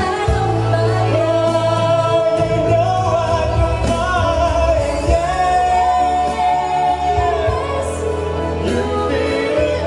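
A live band plays a slow pop ballad while a vocalist sings, holding one long note about halfway through, over a steady bass line.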